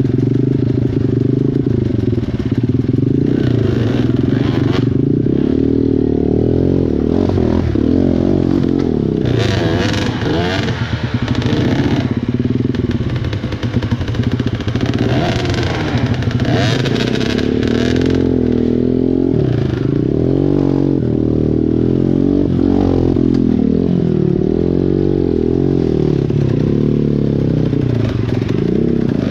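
Small dirt bike engine running hard, its pitch rising and falling as the throttle is worked on and off through a rocky riverbed. Rushes of hissing noise come in around ten seconds and again around sixteen seconds in.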